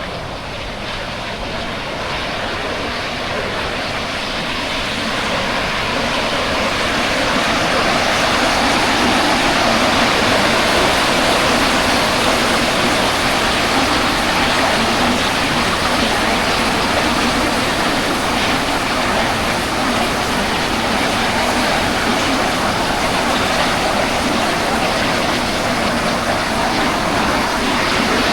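Waterfall rushing: a loud, constant sound of falling water that grows louder over the first several seconds and then holds steady.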